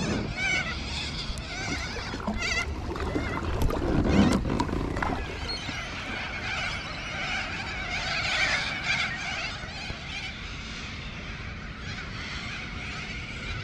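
Birds calling, with wavering chirps and warbles throughout, busiest past the middle. Two low thumps stand out, near the start and about four seconds in.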